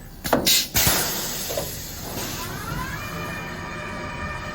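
Automatic laminated glass cutting machine at work: a few short hissing bursts near the start, then a motor whine that rises in pitch about two seconds in and holds steady.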